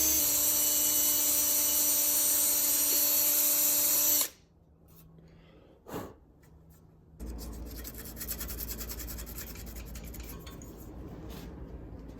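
Power drill running at a steady speed, drilling a cable-routing hole in an aluminium bike frame; it stops suddenly about four seconds in. After a pause with a single click, a quieter steady hiss with a low rumble starts about seven seconds in.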